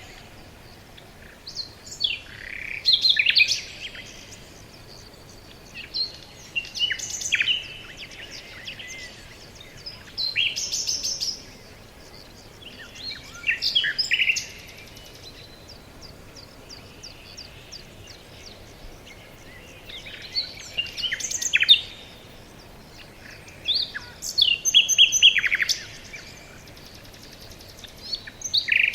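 Songbirds singing in a forest: phrases of chirps and quick trills every few seconds, with short pauses between them, over a faint steady background hiss.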